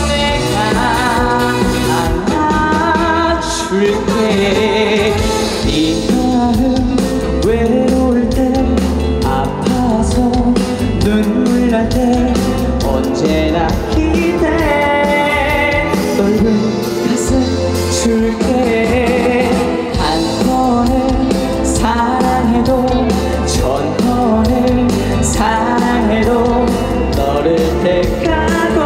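Live pop music: a male singer performing over a loud band backing track with a steady beat.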